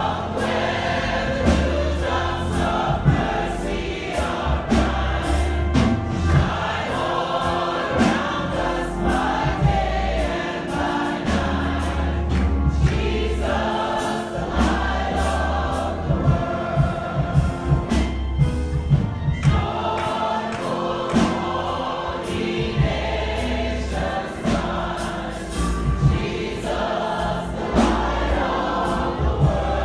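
A church congregation singing a gospel song together, over a band with a steady bass line and a regular beat of sharp strikes.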